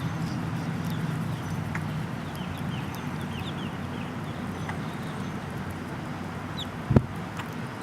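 Faint chirps from small birds gathered at scattered feed, including a quick run of short falling notes a few seconds in, over a steady low hum. A single sharp thump near the end is the loudest sound.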